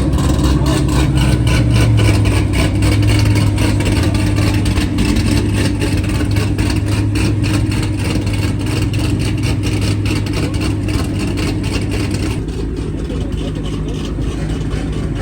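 Loud car engine and exhaust held at steady high revs, a deep continuous drone with a crackly edge, easing off about twelve seconds in.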